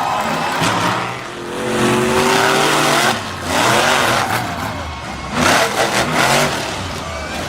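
Monster truck engine revving, its pitch rising and falling several times with the throttle.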